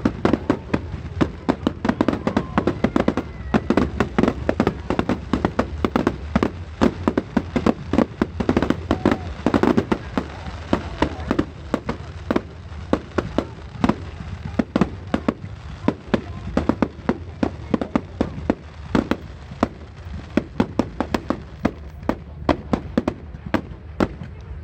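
Fireworks display: a rapid, continuous run of sharp bangs from bursting fireworks, several a second, with a denser flurry about ten seconds in.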